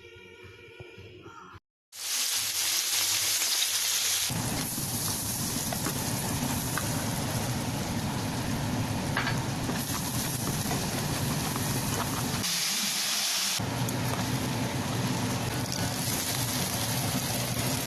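Food sizzling as it fries in a hot pan: a steady, loud sizzle that starts about two seconds in, after a short music intro, and runs on with small shifts in tone.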